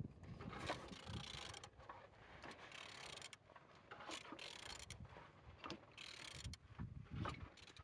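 A removed car engine being turned over by hand: faint, irregular mechanical clicks and scrapes as it rotates, turning freely.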